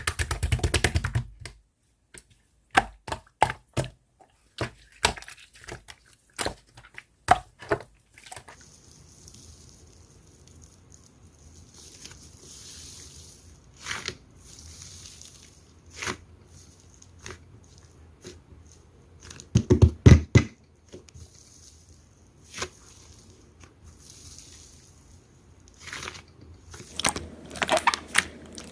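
Slime being squeezed and poked by hand, giving sharp clicks and crackles, dense over the first eight seconds, then scattered, with a louder cluster of pops about twenty seconds in.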